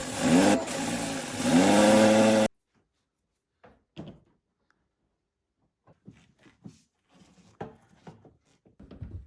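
Kia Soul's engine revving, its pitch rising in blips and then holding high, until it cuts off abruptly about two and a half seconds in. A few faint knocks and clicks follow.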